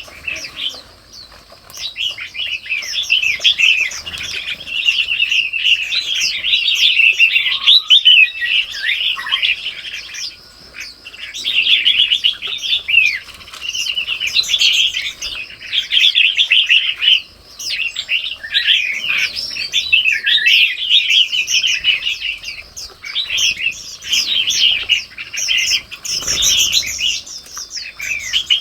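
Many small birds chirping and calling at once in a dense, overlapping chorus of quick chirps and trills, with short lulls now and then.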